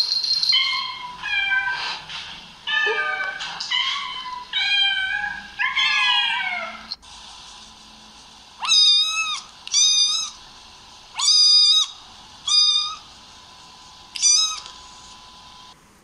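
Domestic cat meowing over and over: a quick run of short mews, then after a pause of a second or so, five longer meows with a wavering pitch.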